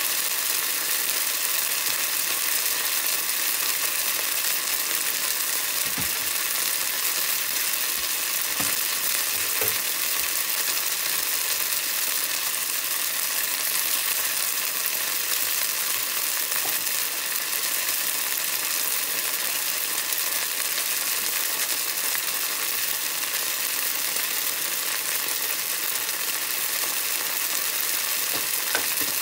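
Eggplant pieces frying in hot oil in a pan: a steady, even sizzling hiss. A few faint knocks come in the first third.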